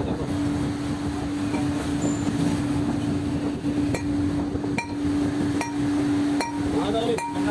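A steady machine hum runs throughout. From about halfway through come light metal-on-metal clinks, five or so at roughly even spacing, as parts and tools are handled during the shaft repair.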